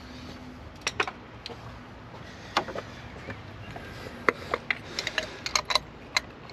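Irregular metallic clicks and taps of hand tools working down in an engine's spark plug wells, a few single knocks at first and a quick cluster of them about five seconds in.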